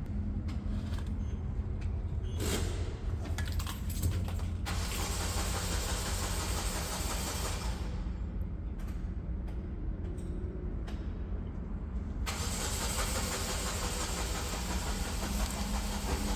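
A 1995 terminal tractor's diesel engine running steadily. A loud hissing rush comes in at about 5 seconds, stops at about 8 seconds, and starts again at about 12 seconds.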